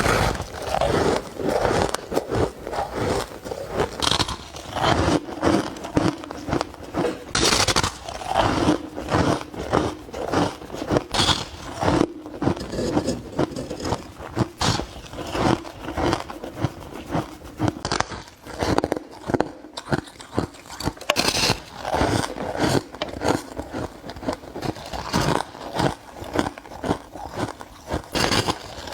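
Soft ice being bitten and chewed: repeated close crunching and crackling, a few bites and chews a second.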